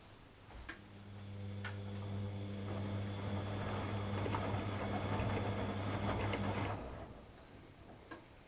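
Atlant 70C1010 washing machine: a click, then a low mains hum with a whirring, rushing noise that builds for about six seconds and stops abruptly, followed by another click near the end. This is typical of a relay switching on a short-running pump, valve or motor stage of the wash cycle.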